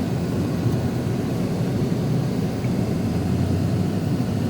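Steady low rumble of a vehicle driving, heard from inside the cabin: engine and road noise.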